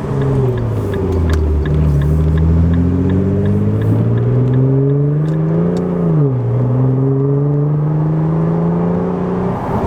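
Nissan GT-R R35's 3.8-litre twin-turbo V6 through a straight-piped exhaust, heard with the windows down, pulling with slowly rising revs. About six seconds in the pitch jumps up briefly, then drops as it changes up a gear. It climbs again until it eases off near the end.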